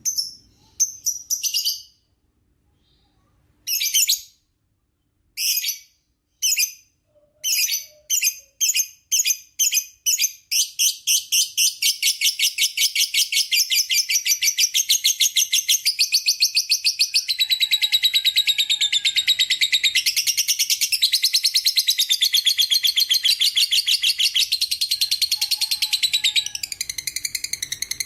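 Lovebird chattering in its long 'ngekek' song. It starts as separate sharp high chirps that come faster and faster, and about ten seconds in they run together into one long, rapid, unbroken trill.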